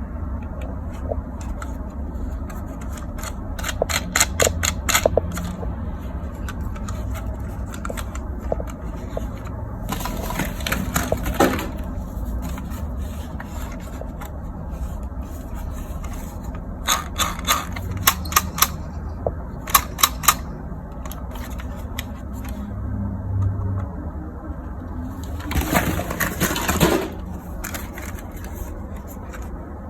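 Hard plastic toys being handled: clusters of rapid clicking and a couple of longer rattling bursts, over a steady low hum.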